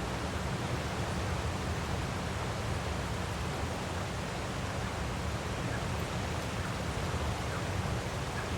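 Steady rushing of a waterfall, an even unbroken noise that is heaviest in its deep rumble.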